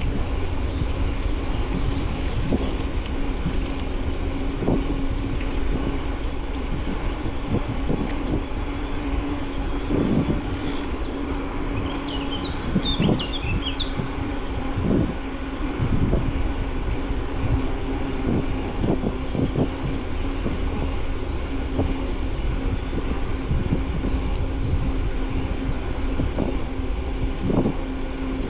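Riding noise picked up by a camera mounted on a moving bicycle: wind rumble on the microphone and tyre noise, with a steady hum and frequent irregular knocks and rattles as it goes over bumps. A bird chirps briefly about halfway through.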